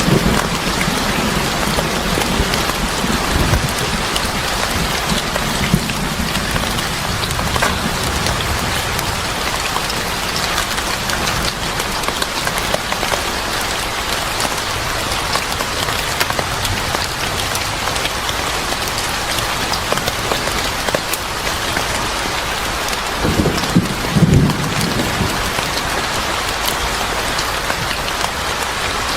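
Steady rain pattering on a surface, with a brief low rumble near the end.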